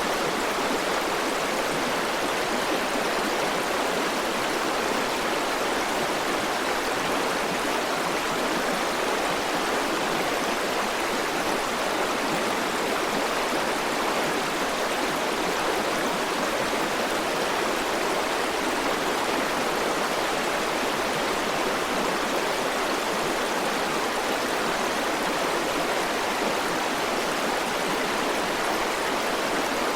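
River water flowing steadily over rocks: an even rushing with no breaks or changes.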